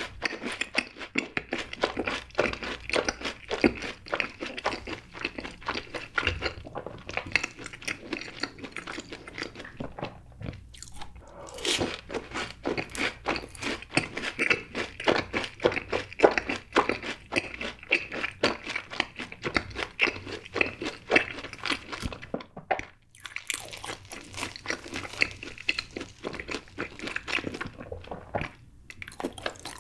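Close-miked crunching and chewing of fried cheese balls: a crisp crust cracking in rapid crackles as they are bitten and chewed, with a few short pauses between mouthfuls.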